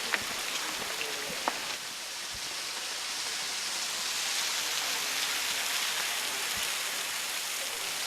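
Waterfall spattering down into a pool: a steady hiss of falling water, a little fuller from about three seconds in. A couple of sharp ticks sound in the first two seconds.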